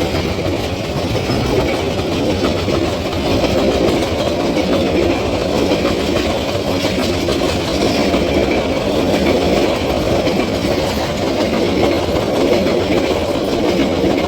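A train running on the rails: a steady rumble with faint clicks scattered through it.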